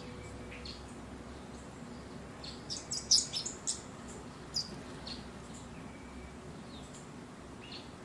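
Small birds chirping: a quick run of sharp, high chirps a few seconds in, with a few single chirps before and after.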